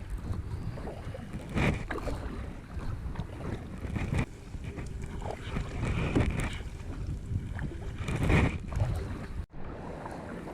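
Kayak on a river heard from the paddler's action camera: water sloshing with paddle strokes that surge about every two seconds, wind on the microphone, and a life jacket scratching against the camera. The sound cuts off abruptly near the end and gives way to a quieter steady hiss.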